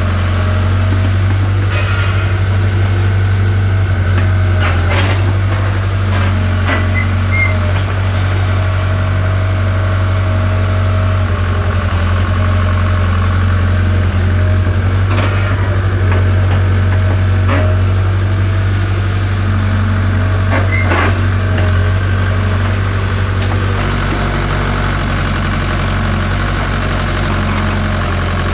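Hitachi excavator's diesel engine running steadily with a deep, even drone, with a few short metallic clanks now and then as it works. The drone deepens slightly near the end.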